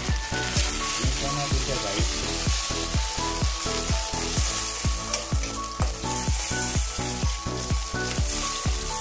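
Ketchup-based sauce sizzling and frying in a pan, a steady hiss, over background music with a quick, steady beat.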